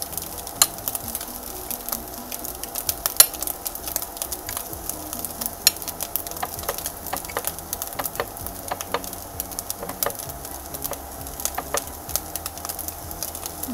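Luncheon meat fried rice sizzling in a frying pan on the stove, with frequent irregular crackling pops over a steady hiss.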